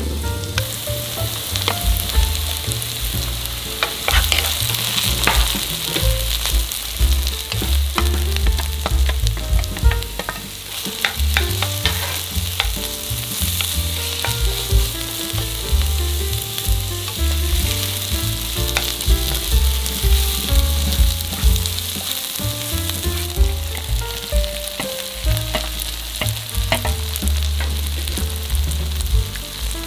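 Sliced green onion, then onion and shiitake mushrooms, stir-frying in hot oil in a nonstick wok: a steady sizzle broken by frequent clicks and scrapes of a wooden spatula against the pan.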